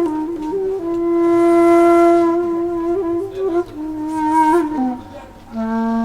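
Solo flute playing a slow melody of long held notes that step downward, ending on a low sustained note, with breathy air noise on some of the notes.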